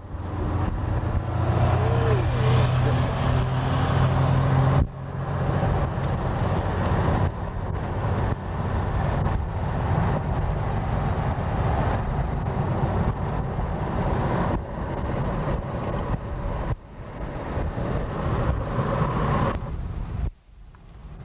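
A motor vehicle's engine running with steady road and engine noise, broken by several abrupt cuts where the recording stops and restarts.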